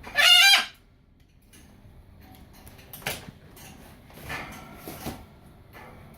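A pet parrot gives one short, loud, high-pitched squawk at the start, then a few faint chirps.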